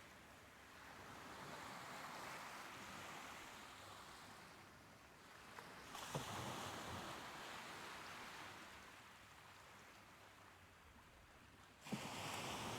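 Soft ocean waves washing ashore, swelling and easing in turn. A wave breaks sharply about six seconds in and another near the end.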